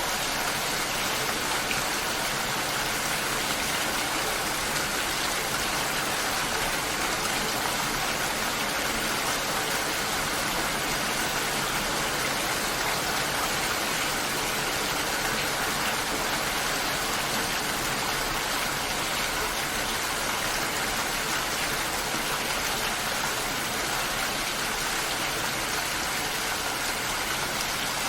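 Steady, even rain falling with no breaks.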